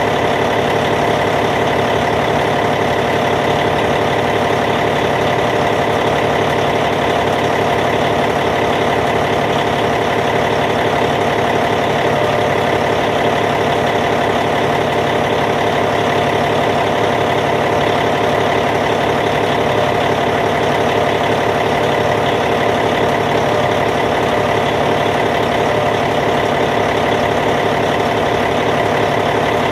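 Caterpillar C15 inline-six diesel engine of a Cat D8T bulldozer idling steadily, with an even, unchanging note.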